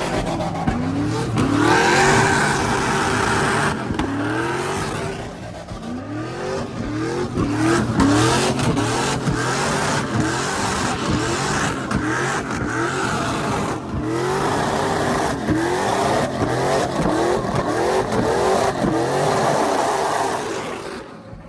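Truck engine revving hard again and again, its pitch climbing and dropping back many times in quick succession. Harsher noise rides over it about two seconds in and again for several seconds past the middle.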